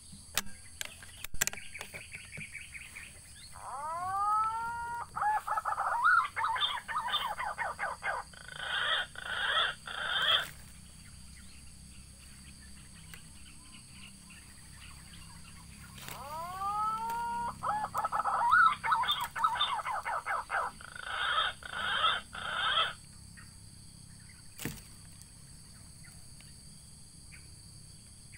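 Punai (green pigeon) song, twice, about twelve seconds apart: each phrase opens with curved, rising-then-falling whistled notes and runs into a fast series of loud notes lasting about six seconds. A steady high insect hum sits underneath.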